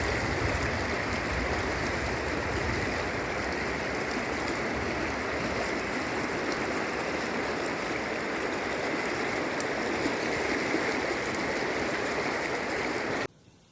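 Floodwater of a flash flood rushing steadily in a torrent, with no break in its flow; the sound cuts off suddenly near the end.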